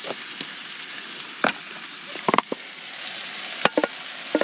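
Fatty ground beef frying in a pan with a steady sizzle. A few sharp clicks and knocks are heard over it.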